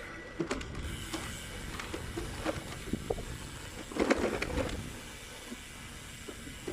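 Bicycle riding along a forest track: tyre noise and low wind rumble, with scattered clicks and rattles and a louder rattling burst about four seconds in.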